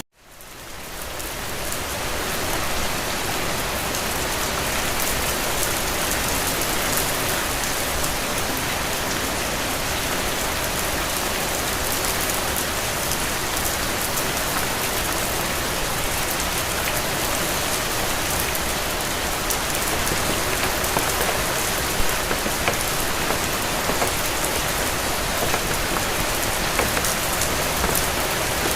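Steady rain falling, an even hiss with a few louder drops. It fades in from near silence over the first couple of seconds.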